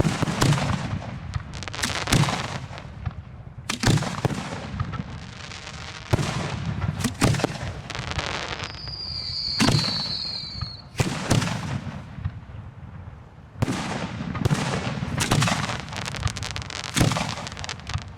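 Aerial fireworks shells booming in quick succession, about a dozen sharp bangs, each followed by crackling and rumbling echo. A short, high whistle sounds around the middle.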